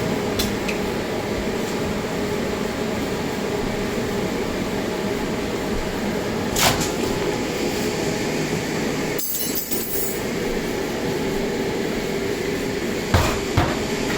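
Steady machine hum with a low drone, broken by a single sharp click about halfway through and two knocks near the end.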